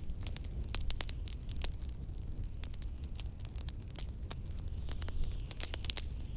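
Wood fire crackling in a fireplace, with many sharp irregular pops and snaps, over a steady low rumble of blizzard wind.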